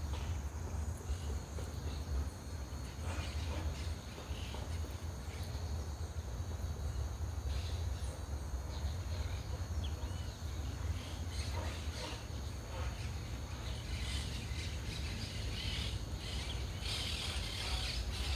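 Outdoor riverbank ambience: insects trilling in one steady high note over a low rumble, with scattered small clicks and rustles that grow louder near the end.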